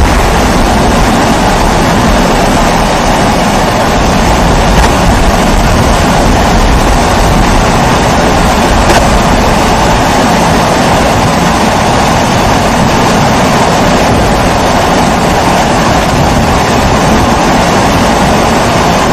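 Pressurised kerosene stove (primus-type "babour") burner burning with a steady, even rushing noise, strongest in the middle range, with a low rumble beneath.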